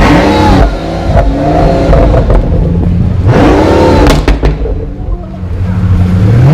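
Supercar engine revved twice, each time rising sharply in pitch and falling back. A few sharp cracks follow just after the second rev.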